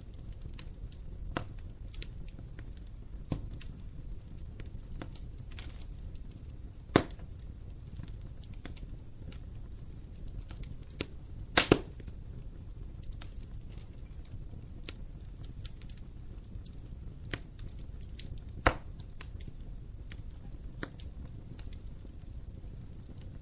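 Wood fire burning in an open fireplace: a low steady rumble of flames under scattered crackles. A few sharp pops stand out: one about seven seconds in, a double pop near twelve seconds, and another near nineteen seconds.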